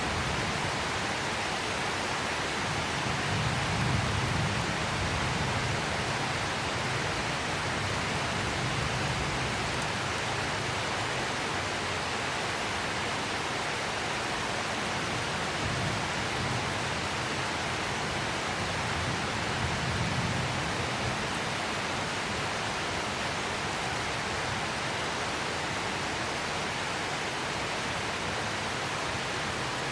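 Steady heavy rain: an even, unbroken hiss, with soft low rumbles a few times.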